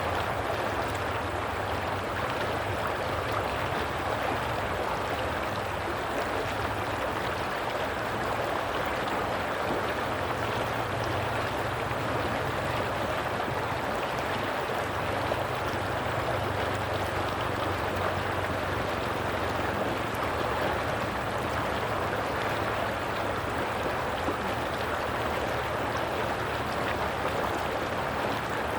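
Running water flowing steadily, like a stream, as one even noise that does not pause or change.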